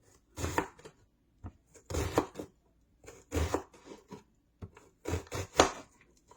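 Kitchen knife cutting onion on a cutting board, with the blade hitting and scraping the board. Several short bursts of quick strokes come about a second or more apart.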